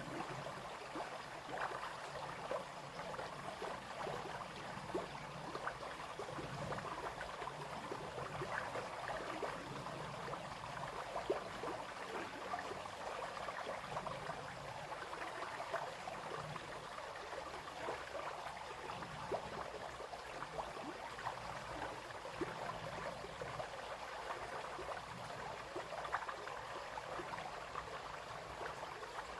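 Small brook babbling and splashing over stones, a steady stream of small gurgles.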